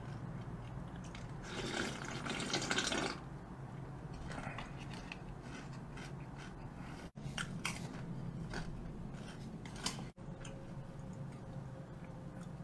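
A person chewing a mouthful of food close to the microphone: wet mouth clicks and smacks, with a louder noisy stretch of about a second and a half roughly two seconds in.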